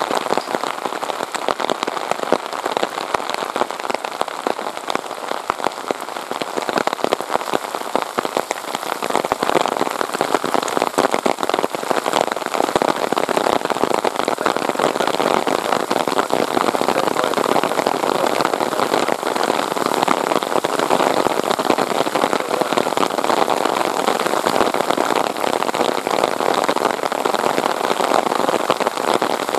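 Heavy rain falling and pattering, a dense hiss thick with sharp individual drop hits, growing louder about nine seconds in.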